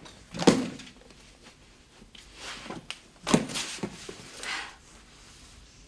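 A few knocks and thuds from things being handled: a sharp knock about half a second in, another about three seconds later with a smaller one just after, and short swishes in between.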